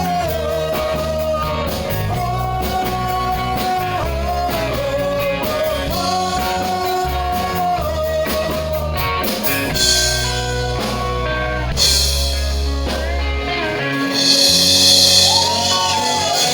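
Live rock band playing with a singer: guitar, bass and drum kit under a sung melody. About fourteen seconds in the bass drops out and a cymbal wash rings over the guitar.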